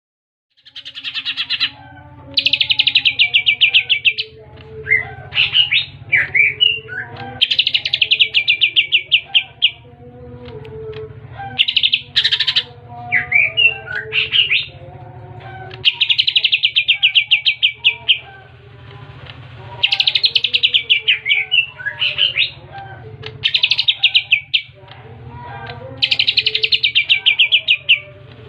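A green leafbird (cucak hijau) singing loud, fast rattling trills of about two seconds each, repeated several times. Between them come short chirps and swooping whistled notes. Its song mixes in mimicked calls of the kapas tembak and the tree sparrow. A steady low hum runs underneath.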